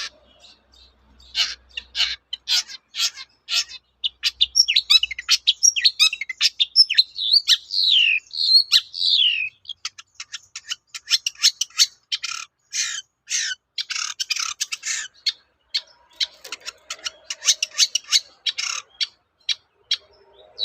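Long-tailed shrike singing in full song: fast runs of sharp, harsh repeated notes mixed with rising and falling whistled phrases, starting about a second in.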